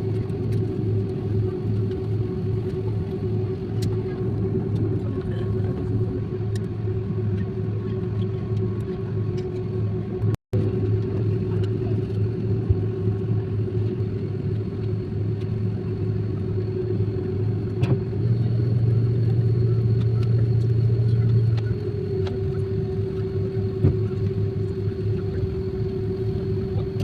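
Steady vehicle engine drone, a low hum with a steady higher tone over it, cut off for a moment about ten seconds in and swelling a little louder for a few seconds past the middle.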